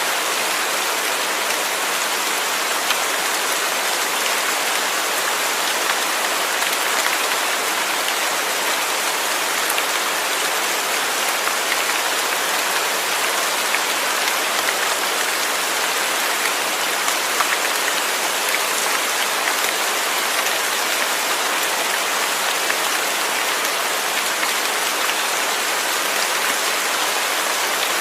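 Steady heavy rain falling on a surface, a dense even patter with scattered individual drops ticking.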